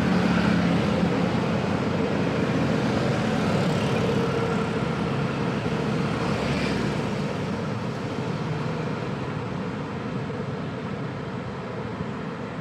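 Busy road traffic: many vehicle engines and exhausts running together in a steady, dense rumble that grows gradually quieter through the second half.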